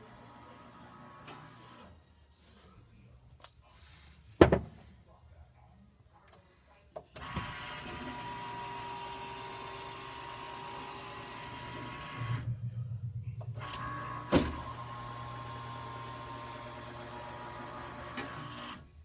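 Wolf downdraft vent's motor running steadily for about twelve seconds as it moves the arm, with a sharp knock before it starts, a short stretch of rapid low thumping in the middle and another knock just after. The thumping is the sign of a cut on the black roller wheel that repositions the arm.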